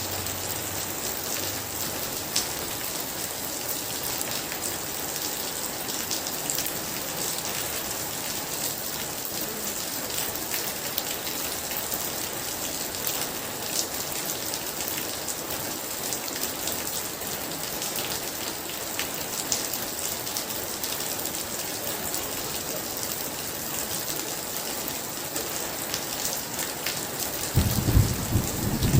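Very heavy rain falling in a steady dense hiss. A low thunder rumble fades away in the first couple of seconds, and a loud rumble of thunder breaks in near the end.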